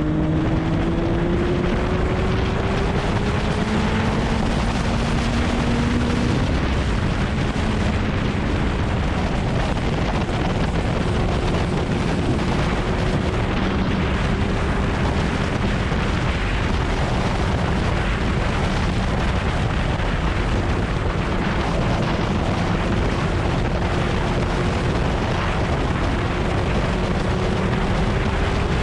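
Kawasaki ZX-9R's inline-four engine running under way, buried in heavy wind rush on the microphone. The engine note rises over the first several seconds, breaks off, then climbs slowly again later on.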